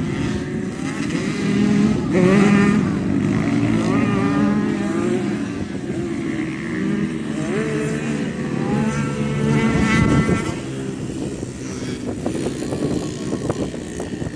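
Motocross bike engines running and revving on a dirt track, several overlapping engine notes, with the pitch climbing as they accelerate and loudest about two and ten seconds in.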